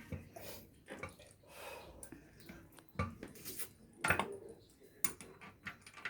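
A few separate clicks and knocks of hard objects being handled, the loudest about three and about four seconds in.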